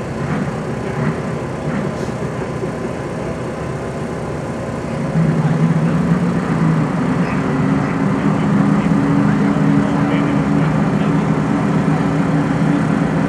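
Two drag-race cars' engines running at the starting line; about five seconds in, the engine sound gets louder and settles into a steady low drone held at higher revs.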